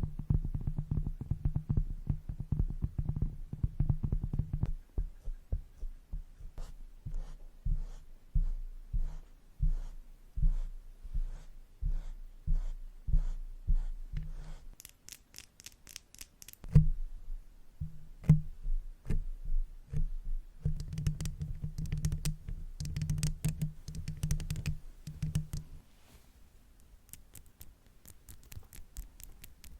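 Makeup brushes tapped and brushed directly on a microphone: quick runs of soft taps with low thuds, and a stretch of high bristly scratching around the middle. Over the last few seconds the taps become lighter and quieter.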